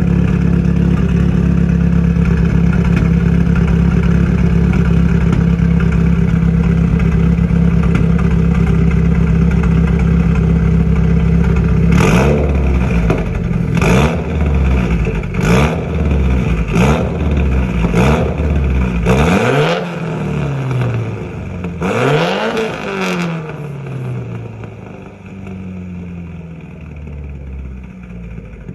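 Mitsubishi Lancer Evo X MR's turbocharged 2.0-litre four-cylinder engine through a full titanium Tomei exhaust, running at a loud steady note for about twelve seconds. It then gives a series of about seven quick rev blips, each rising and falling, before settling back to a quieter idle near the end.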